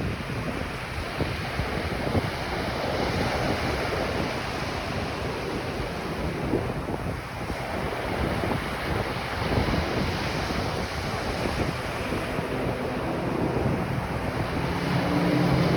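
Ocean surf washing on a beach, with wind buffeting the microphone. Near the end an engine's hum rises and grows louder.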